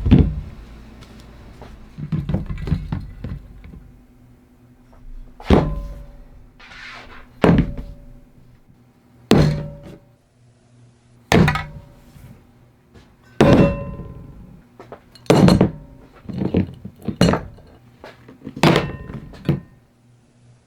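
Heavy blows on metal, about one every two seconds, several leaving a brief metallic ring, like hammering on a steel part.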